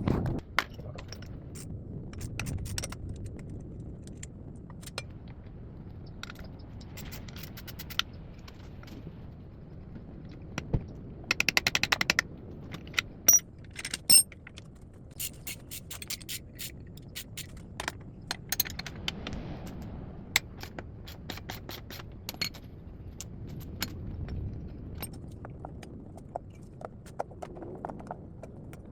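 Hand tools working on a small motorcycle's carburetor mounting: scattered metal clinks, scrapes and knocks. Around the middle come a few short runs of rapid, even clicking.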